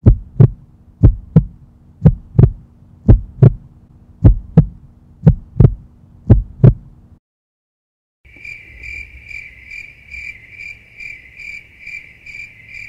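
Heartbeat sound: about seven paired lub-dub thumps, roughly one a second, over a low hum, stopping about seven seconds in. After a second of silence, crickets chirping steadily, about three chirps a second.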